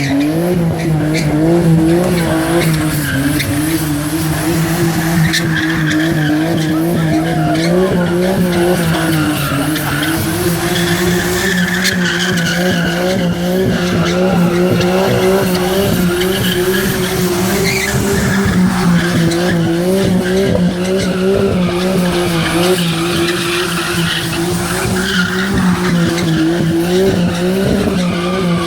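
Nissan Skyline engine swapped into a Ford Transit van, running steadily with a constant pitch that wavers slightly.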